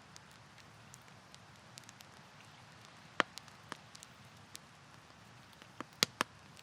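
Wood campfire crackling: scattered sharp pops and snaps over a soft steady hiss, with one loud snap about three seconds in and a quick cluster of three near the end.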